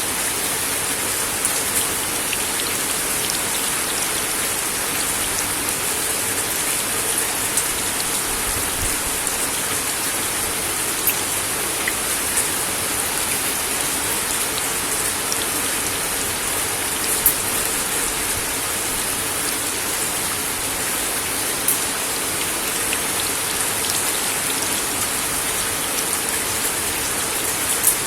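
Steady rain falling on a wooden deck, a dense even patter with occasional louder individual drop hits standing out.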